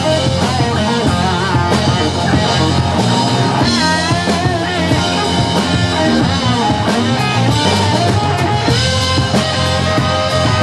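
Live rock band playing an instrumental passage: electric guitar with bending notes over bass and a drum kit.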